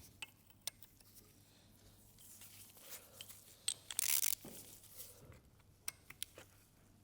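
Small clicks and taps of oil pump parts being handled on a workbench, with a brief rasping, tearing burst about four seconds in.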